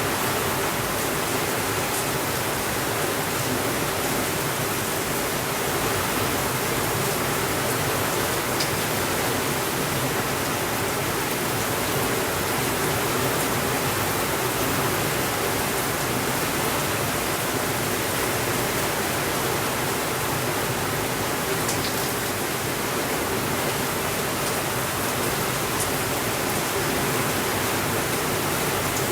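Steady rainfall, an even rushing hiss with no breaks, with a few faint ticks scattered through it.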